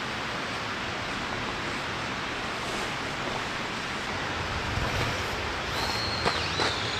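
Heavy rain falling steadily, an even hiss. Near the end a few sharp taps and a brief high whistle-like tone.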